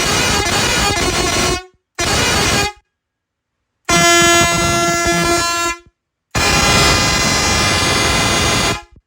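Bosco pressure horn for trucks sounding in loud blasts: one ending early, a short one, then two longer ones, each stopping abruptly into silence. The third blast holds one steady clear tone.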